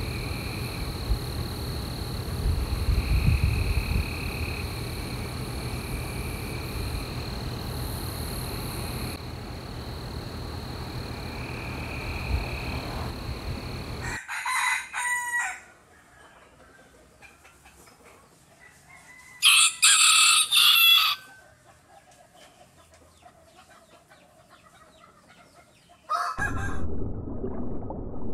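Steady background noise, then a few short animal calls, the loudest a call of about a second and a half around two-thirds of the way through.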